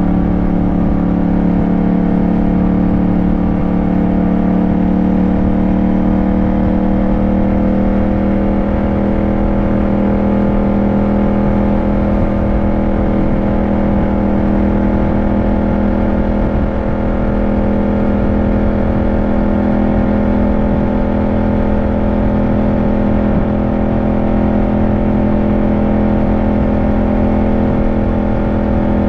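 Yamaha motorcycle engine running under way at a steady cruise, its pitch rising slightly early on and then holding level.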